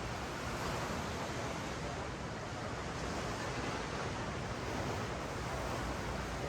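Ocean surf washing up and down a sand beach, a steady rushing wash that swells and eases gently.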